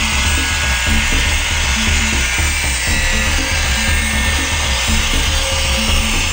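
Angle grinder's wheel cutting around a steel can of beans, a steady high-pitched grinding, under background music with a regular bass beat.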